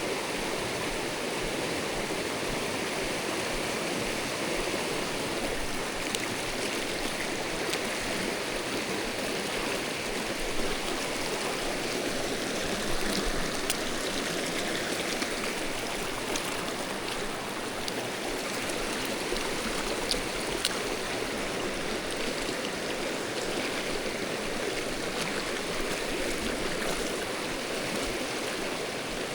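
Mountain stream water rushing steadily over rocks, with a few faint light ticks scattered through it.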